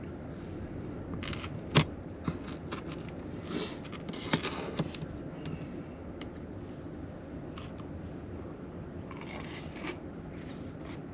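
Eating sounds: a utensil scraping and clicking against a dish, with chewing, over a steady low background hiss. The sharpest clicks come about 2 seconds and 4 and a half seconds in.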